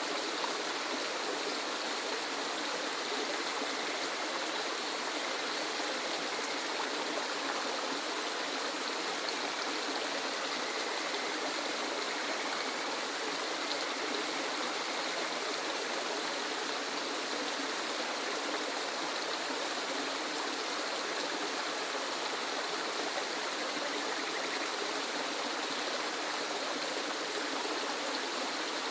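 Waterfall: water rushing and splashing steadily, an even unbroken noise.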